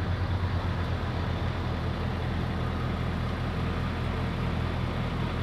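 Semi truck's diesel engine idling steadily, a low even rumble with a regular beat.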